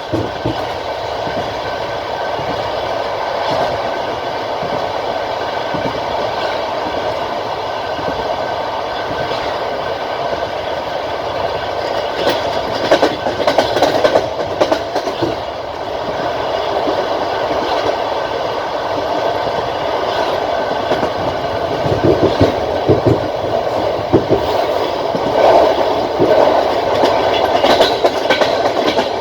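Passenger train carriage running along the track: a steady rumbling rush with the wheels clacking over rail joints, the clacks coming in thicker clusters about halfway through and again later on.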